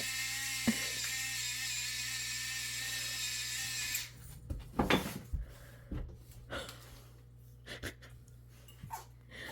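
A small electric motor whines steadily for about four seconds and then stops. A few light knocks and clinks of dishes follow.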